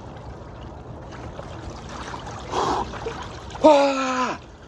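Steady flowing water. About two and a half seconds in comes a sharp breath, then near the end a man's loud wordless groan that falls in pitch: his reaction to the cold water of a cold plunge.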